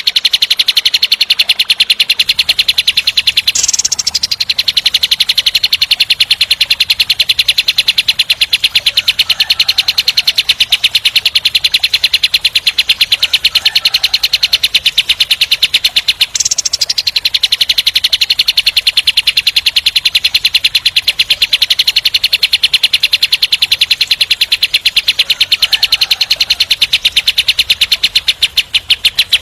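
Kapas tembak songbird giving its long, harsh rolling trill: a very rapid, continuous rattle of repeated notes. A brief higher note breaks it twice, once about four seconds in and again just past the middle.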